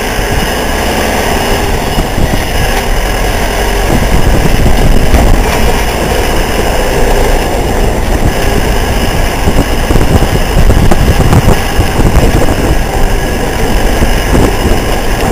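Motorcycle engine running under way, with loud, steady rumble and road noise.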